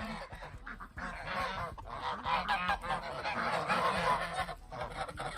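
A flock of geese honking, many short calls overlapping in a loud, continuous chorus.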